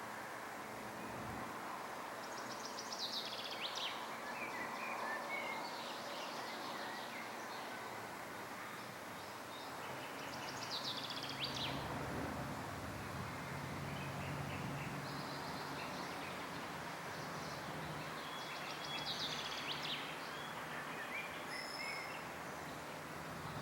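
Songbirds singing in short, high trilled phrases every few seconds over a steady background hiss.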